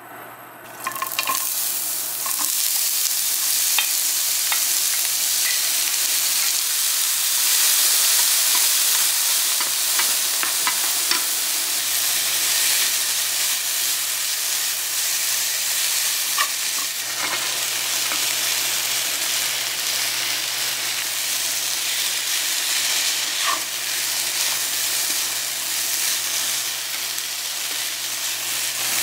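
Sliced onion and diced vegetables sizzling as they are stir-fried in hot oil in a nonstick wok, with a wooden spatula scraping and clicking against the pan. The sizzle starts about a second in, as the onions go into the hot oil, and then holds steady.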